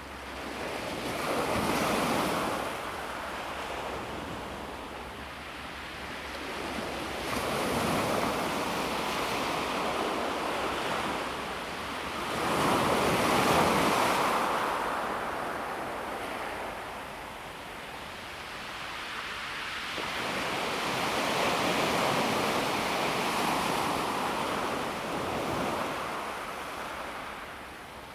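Calm sea waves breaking and washing over a pebble beach, rising and falling in four slow surges, the loudest about halfway through.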